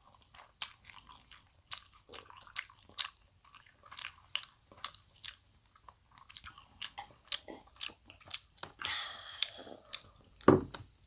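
Close-miked chewing and biting of soft Korean fish cake (eomuk), with many wet mouth clicks and smacks. About nine seconds in there is a short noisy rush, and soon after a single low thump, the loudest sound here.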